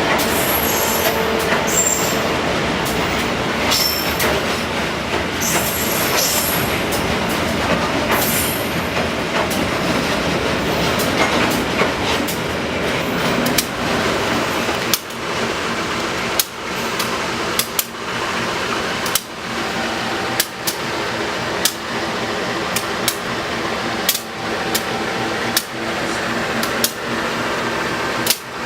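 Train running on the rails. Thin, high wheel squeals come in the first several seconds, then a regular clack from the rail joints about every second and a quarter.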